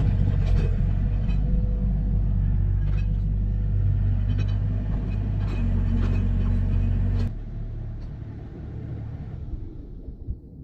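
An engine running steadily at a low, even pitch, with a few sharp knocks over it; it cuts off about seven seconds in and the sound dies away.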